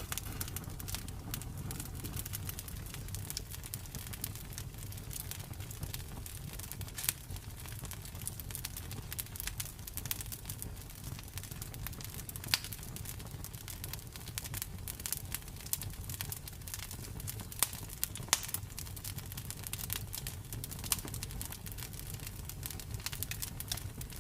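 Campfire burning: wood crackling and popping in irregular sharp snaps, with several louder pops, over a low steady rumble of the flames.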